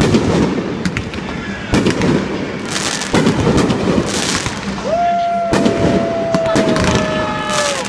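Fireworks display: aerial shells going off with a series of sharp booms about every one and a half seconds, each followed by crackling. In the second half a long, slightly falling whistle-like tone sounds over the bursts.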